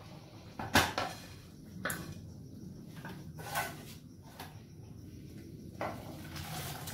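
A few separate clinks and knocks of kitchen dishes and utensils, the loudest a little under a second in, over a low steady hum.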